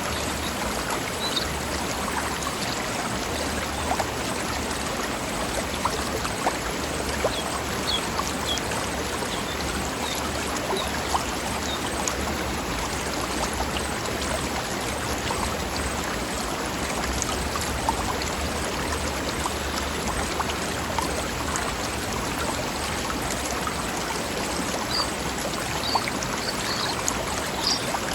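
A forest stream running steadily over rocks, a constant rushing and babbling of water.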